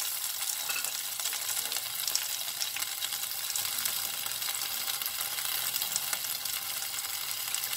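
Potato cubes and chopped tomatoes frying in hot oil in a kadhai: a steady sizzling hiss with small crackles and spits throughout.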